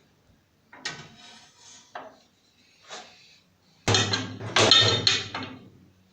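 Objects being handled, knocking and clattering in several separate bursts, the loudest and longest about two thirds of the way in.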